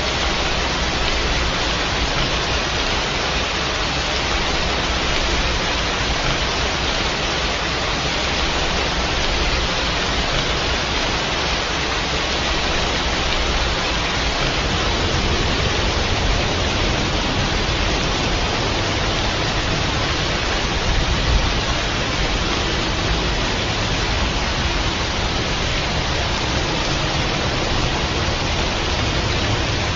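Steady rain falling: a dense, even hiss of rainfall.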